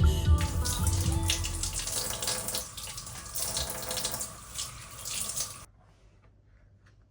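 Water running from a tap into a sink, a steady hiss that stops abruptly about five and a half seconds in as the tap is shut off.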